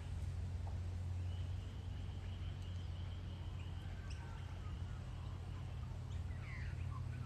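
Outdoor ambience of faint bird calls over a steady low hum: a long thin high whistle in the first half, then a few short chirps near the end.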